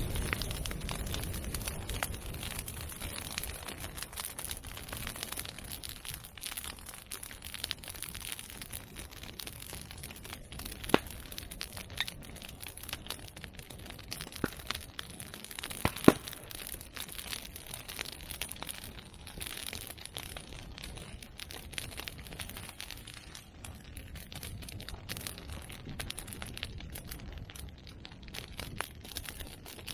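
Open fire of medake bamboo and chestnut pruning branches crackling steadily, with a few sharp pops as bamboo stems burst in the heat, the two loudest about eleven and sixteen seconds in.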